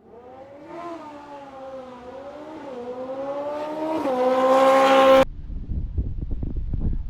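Motorcycle engine revving and held at high revs, its pitch climbing gradually and stepping up about four seconds in, then cut off abruptly. A deep bass beat comes in right after.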